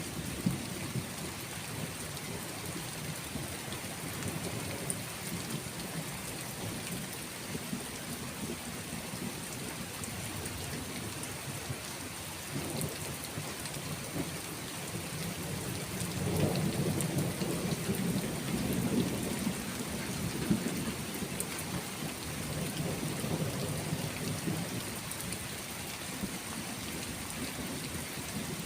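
Steady rain falling, with rolling thunder rumbling low underneath; the thunder swells loudest a little over halfway through and then eases back.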